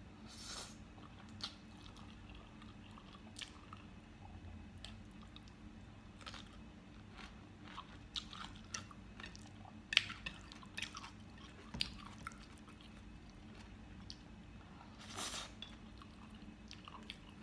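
Close-miked mouth sounds of a person eating cheesy spicy instant noodles: chewing, with scattered wet clicks and smacks. The sharpest click comes about ten seconds in, and a longer noisy burst comes about fifteen seconds in.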